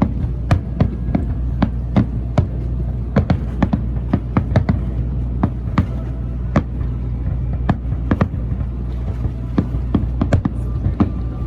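Fireworks going off: many sharp bangs at irregular intervals, sometimes several a second, over a steady low hum.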